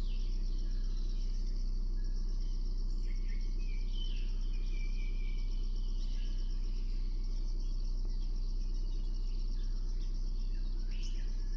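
Steady chorus of crickets or similar insects, a constant high pulsing trill, with scattered short bird chirps over it and a low steady rumble underneath.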